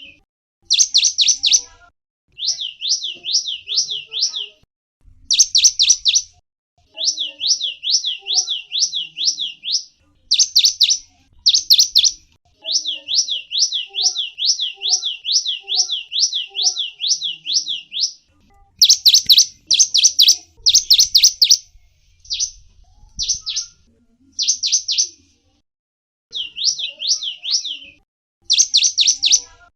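Gelatik wingko, a small songbird, singing over and over in short phrases of quick, high notes that sweep down and up, about five a second, with brief pauses between phrases.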